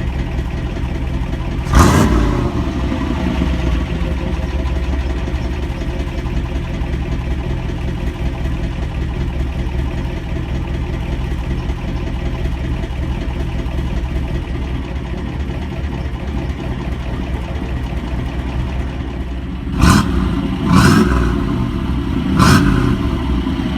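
Warm Chevy 350 V8 exhaust, run without catalytic converters through a Flowmaster 40 Series muffler, idling steadily. One sharp throttle blip about two seconds in, then three short blips in quick succession near the end.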